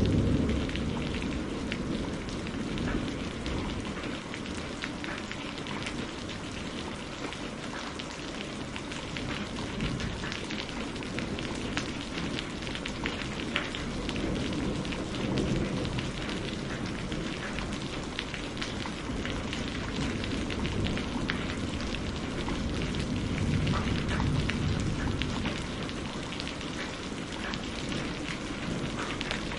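Steady rain falling, with a dense patter of drops, and a low rumble of thunder dying away in the first second or so.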